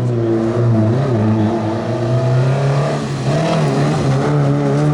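Rally car engine running hard at high revs, its note wavering and then climbing steadily toward the end.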